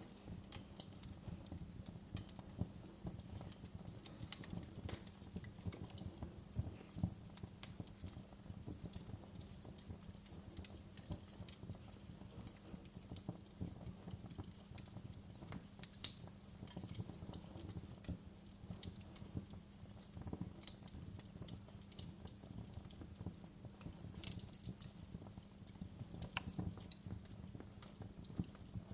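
Wood fire crackling in a fireplace: irregular sharp pops and snaps over a low, steady rumble of the flames, with a louder pop about seven seconds in and another about sixteen seconds in.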